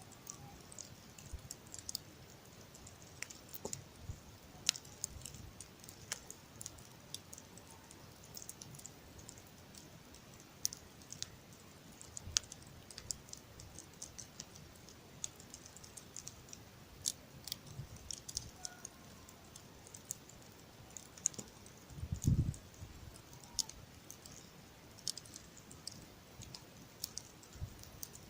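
Campfire crackling: irregular sharp snaps and pops of burning wood, with one low thump about three-quarters of the way through.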